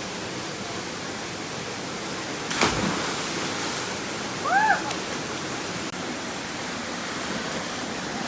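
Steady rush of a waterfall. About two and a half seconds in, a sudden loud splash as a person jumps into the pool below, followed about two seconds later by a short rising-and-falling shout.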